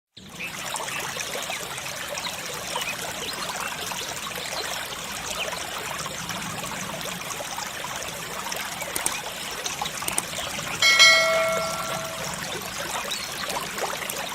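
Water trickling and running steadily, with a single bell-like chime ringing for about a second and a half around eleven seconds in.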